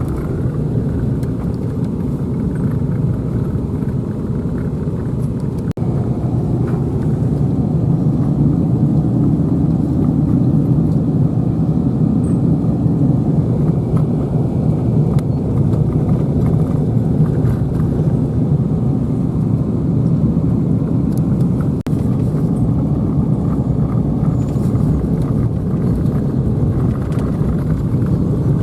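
A vehicle driving, a steady low rumble of engine and road noise that briefly drops out twice.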